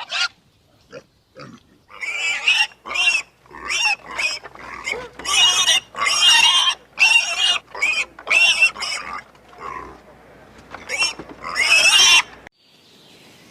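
An animal giving a rapid series of short, high-pitched cries, which cut off suddenly near the end.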